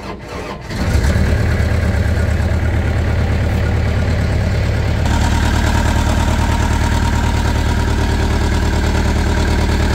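Mini loader engine coming up to speed about a second in and then idling steadily, its tone shifting slightly about halfway through, with the repaired water pump and cooling system being run to check for leaks.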